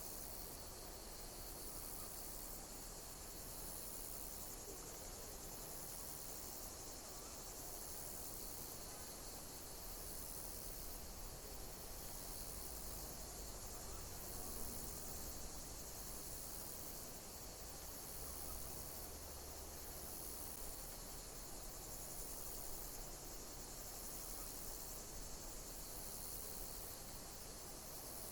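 Insects chirping: a high, steady buzz with a chirp that repeats about every second and a bit, over faint low rumble.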